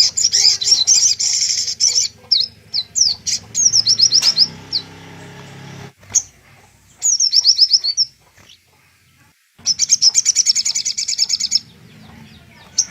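Sogok ontong, a sunbird, singing in bursts of high, very rapid trills and quick series of sweeping chirps, with a lull of about two seconds just past the middle.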